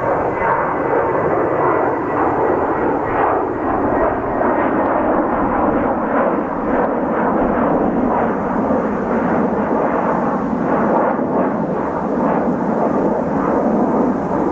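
Jet airliner's engines running loud and steady as it passes, with a thin high whine in the first couple of seconds.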